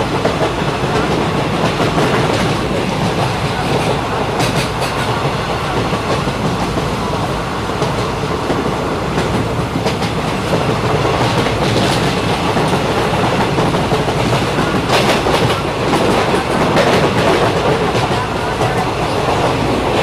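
Passenger train running along the track, heard from aboard: a steady rolling rumble with the wheels clicking over rail joints a few times.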